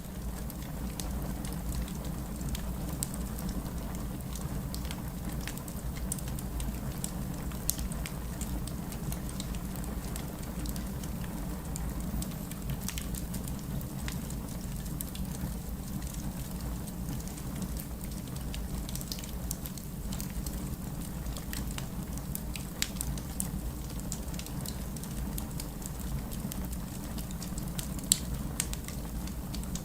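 Wood fire crackling, with scattered sharp pops and one louder pop near the end, over a steady hiss and rumble of heavy rain.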